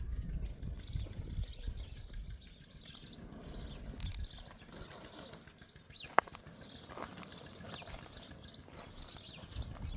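Small birds chirping repeatedly in the background, with scattered low thuds and one sharp click about six seconds in.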